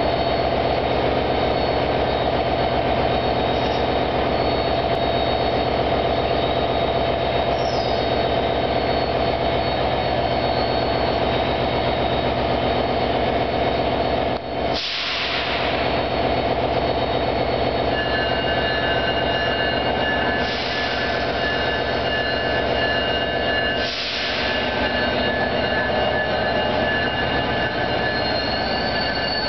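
NJ Transit Raritan Valley Line diesel-hauled train of Multilevel coaches running steadily as it pulls out, a loud continuous drone. There are two short bursts of air hiss, one about halfway through and one about two-thirds of the way in. A thin high squeal of steel wheels on rail joins in from a little past halfway.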